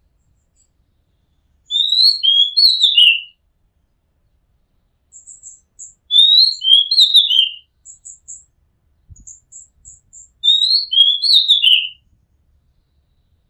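Oriental magpie-robin singing: the same short phrase of sliding, whistled notes three times, about four seconds apart, with soft, thin high notes between the second and third phrases.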